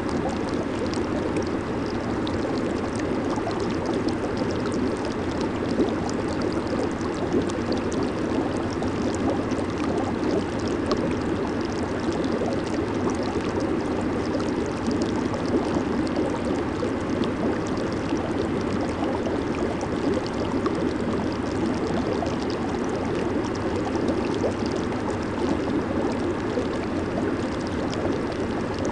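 Hot tub jets churning water: a steady, even bubbling rush with no change throughout.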